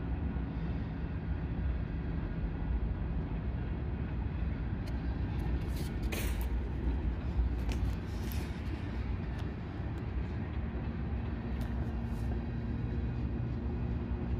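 Steady low rumble of a nearby train, with a few short hisses about halfway through.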